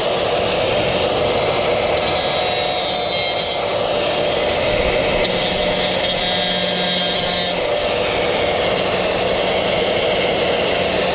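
Angle grinder grinding down the heads of the steel rivets that hold the old leaf-spring hanger to the frame. It runs continuously, and its pitch and grit shift several times as pressure on the work changes.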